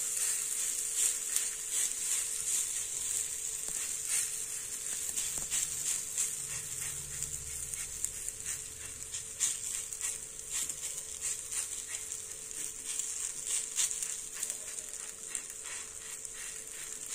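Ragi adai dough sizzling on a hot, oiled cast-iron tawa as it is pressed and patted flat by hand: a steady frying hiss with scattered small crackles and ticks, over a faint steady hum.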